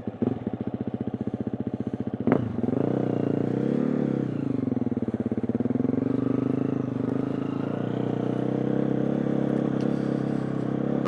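2020 KTM 350 EXC-F dirt bike's single-cylinder four-stroke engine running. There is a sharp click a little over two seconds in, then the revs rise briefly and settle back to a steady run.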